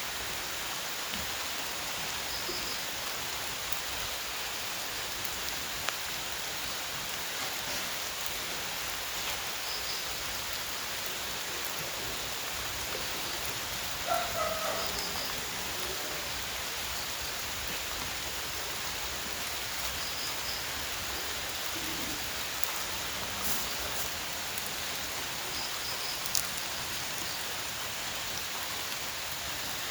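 Steady rain falling, with a short call about halfway through and a few faint high chirps.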